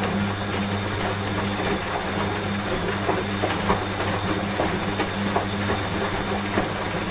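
Washing machine running with a steady low hum, mixed with rain and the patter of many small drops.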